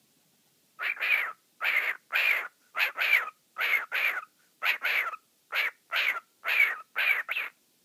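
Pet cockatiel calling: a rapid run of short, scratchy calls in pairs, about seven pairs, starting about a second in.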